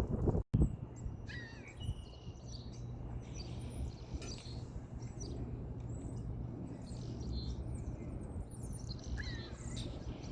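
Small songbirds chirping and calling, many short rising and falling chirps scattered throughout, over a steady low rumble of city background noise.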